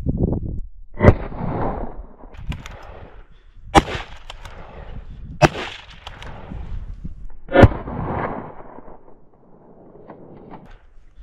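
Four gunshots from a boar hunter's gun, about one, four, five and a half and seven and a half seconds in, each followed by a rolling echo.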